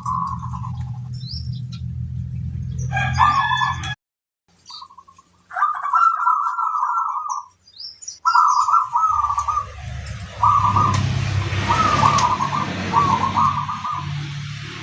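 Perkutut (zebra dove) singing: short, stuttering trilled coos repeated every second or two. A brief louder call with several pitches comes about three seconds in, over a low hum.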